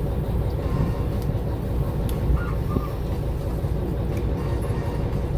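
Steady low rumble of a fishing boat's engine running, heard on board.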